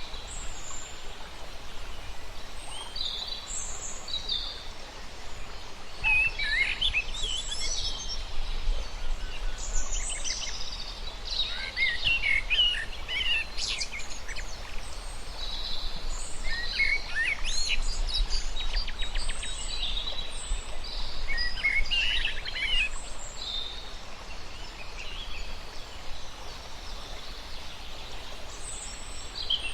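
Several birds chirping and calling in quick, varied phrases, busiest through the middle, over a steady low rumble of outdoor background noise.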